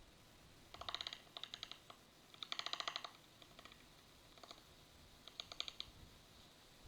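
A bird's rapid clicking rattle in four short bursts, the longest and loudest about two and a half seconds in.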